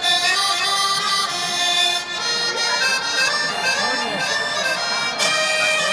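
Live band music with sustained reedy notes, recorded from the audience at a rock concert.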